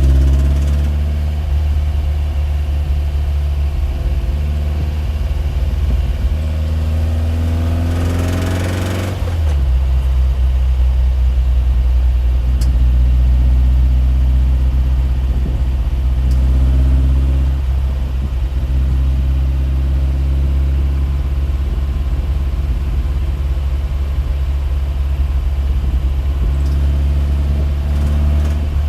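A machine running with a steady low drone and a stack of overtones. Its higher tones rise from about six to nine seconds in, then the drone settles a little lower.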